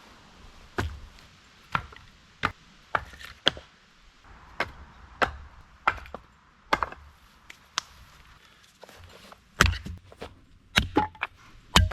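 Firewood being chopped: about fifteen sharp wooden strikes at an uneven pace, some in quick runs, with the heaviest blows near the end.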